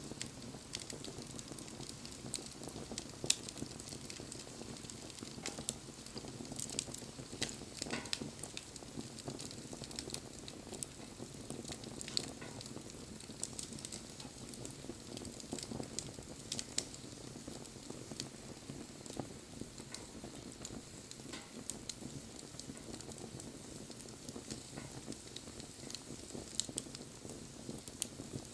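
Wood bonfire burning: a steady low rush of flame with frequent irregular crackles and a few sharper pops.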